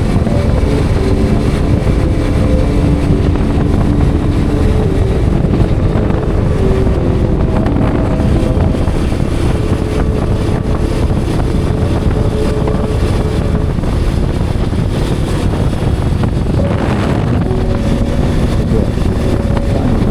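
Hero Xpulse 210's single-cylinder engine running under way, its pitch shifting up and down with the throttle, under heavy wind rumble on the microphone.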